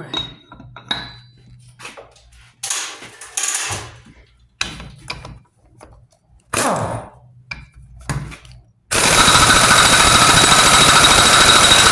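Impact wrench hammering on the Loctited nut of a Mack truck power divider, a loud continuous rattle for the last three seconds or so. Before it, scattered knocks and clatter of tool and part handling.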